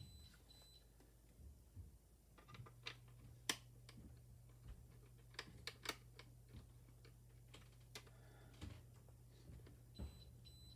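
Faint, scattered clicks and taps of hand work at an alarm keypad's screw terminals as a green data wire is fitted, over a low steady hum.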